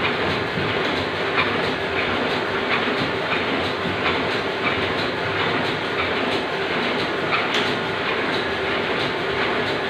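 Machinery running with a steady rattling noise and faint, irregular clicks.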